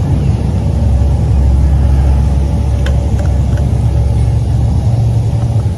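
Boat motor running under throttle: a loud, steady low rumble that drops off suddenly at the very end.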